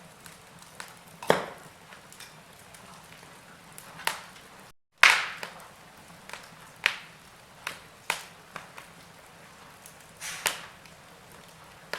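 Wood fire in a fireplace crackling: scattered sharp pops roughly every second or two over a low steady hiss. The loudest pop comes about five seconds in, just after a brief dropout.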